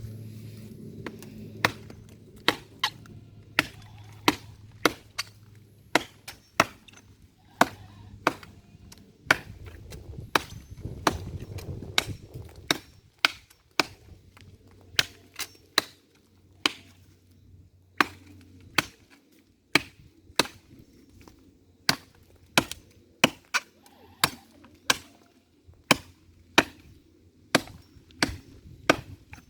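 Firewood being chopped with a hand blade: a long run of sharp, single chops, about one to two a second, with a brief break about two-thirds of the way through.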